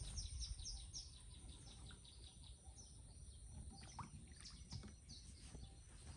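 Faint outdoor ambience with small birds chirping: a quick run of short falling chirps, about four a second, in the first second, then scattered single chirps. A steady thin high tone and a low rumble sit underneath.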